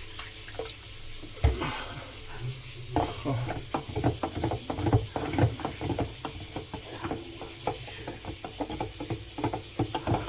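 A spoon stirring and scraping inside a dishwasher's salt reservoir full of water, a quick run of clicks and taps as it works to dissolve the leftover salt. A single knock about a second and a half in.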